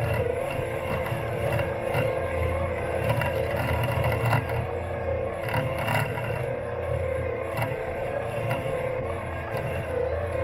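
Robot lawn mower's electric motors running steadily with a constant whine, heard from on board the mower, with scattered light clicks and scraping as it cuts grass and moves over the lawn.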